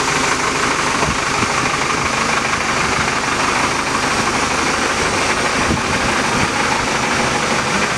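Engine of a tractor-mounted auger pile-driving rig running steadily, a constant low engine hum under an even mechanical noise.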